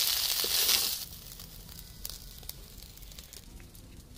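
Snails sizzling in hot mustard oil in a kadhai, the sizzle cutting off abruptly about a second in. A few faint clicks follow over a low background.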